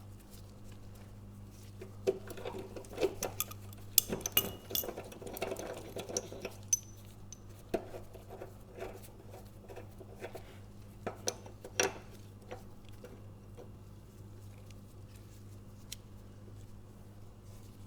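Steel gear puller and wrench being worked on a seized mower blade adapter: irregular metallic clicks and clinks, in a busy stretch and then a shorter one, over a steady low hum.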